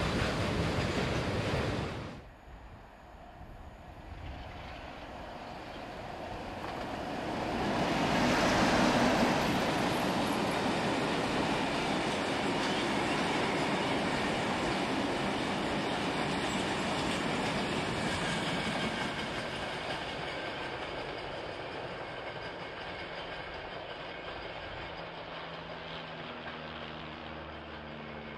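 Freight train of rail tank wagons running past, its wheels going over the track. The sound breaks off sharply about two seconds in, then another tank-wagon train builds up, passes close and slowly fades. Near the end the steady hum of an approaching diesel-electric locomotive's engine comes in.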